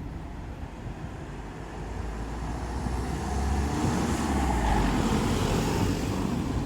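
A motor vehicle running on the road, a low rumble with rising road and wind noise that grows steadily louder over the first five seconds, as if it is approaching.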